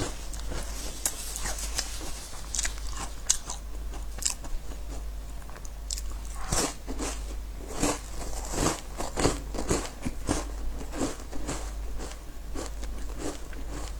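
Close-miked crunching and chewing of crisp biscuits: irregular crackly crunches, bite after bite, over a steady low hum.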